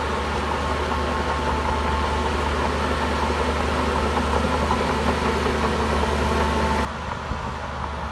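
Heavy earthmoving machinery running: a steady diesel engine drone with a steady high whine on top. About seven seconds in, the sound cuts abruptly to a quieter, duller drone.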